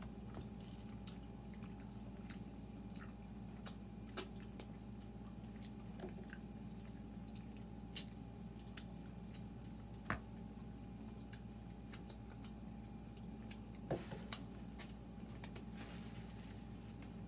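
Close mouth sounds of people chewing pizza: scattered faint clicks and smacks, one sharper click about ten seconds in, over a steady low hum.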